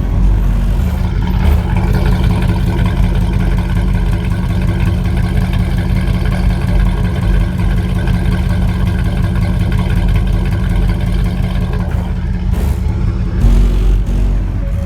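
2000 Dodge Durango's 4.7 L V8 engine running steadily at an even pitch, heard while the truck drives.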